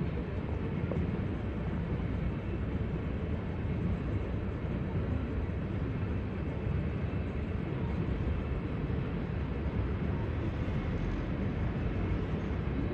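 CSX coal train rolling past, its loaded coal cars making a steady, even low rumble on the rails.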